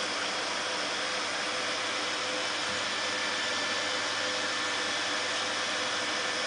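Vacuum cleaner running steadily: an even rushing of air with a faint steady motor whine in it.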